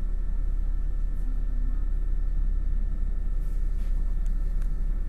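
MAN NL253 Hybrid city bus on the move, heard from on board: a steady low rumble of the drivetrain and road, with faint steady whining tones above it.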